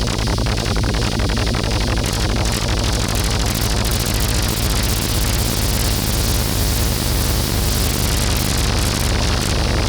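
DIY modular synthesizer playing a dense, noisy techno texture: a heavy low drone under fast, even pulses, with a white-noise hiss that swells in the highs from about four seconds in and thins again near the end.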